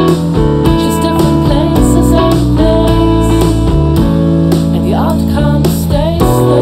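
Band music with guitar to the fore.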